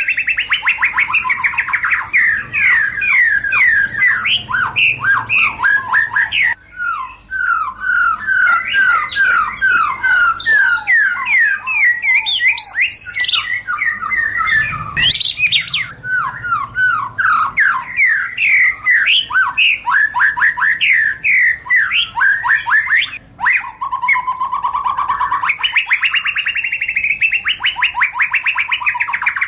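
White-rumped shama (murai batu) singing continuously: fast runs of short, sweeping chattering notes and whistles, broken by a couple of brief pauses, with a lower warbling phrase past the middle.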